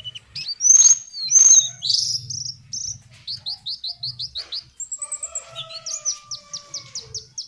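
Lesser shortwing (cingcoang coklat) song: quick runs of short, high, falling notes, with two loud harsh calls about a second in and a lower, drawn-out whistle in the second half.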